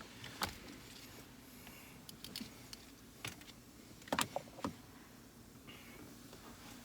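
Scattered clicks and light clatter of electrical connectors and small parts being handled and plugged in under the dash, with the loudest cluster of clicks a little past four seconds in.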